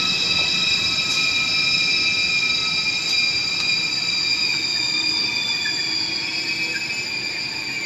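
A train in a station, its metal wheels and brakes giving a high-pitched squeal made of several steady tones, one of them slowly sliding lower, over the rolling rumble of the train. The sound cuts off suddenly at the end.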